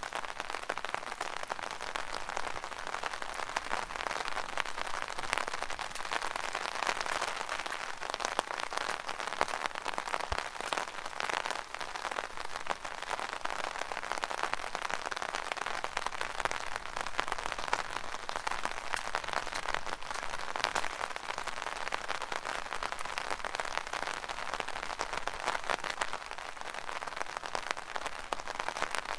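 Rain drumming steadily on an umbrella canopy, a dense pattering of fine drop impacts.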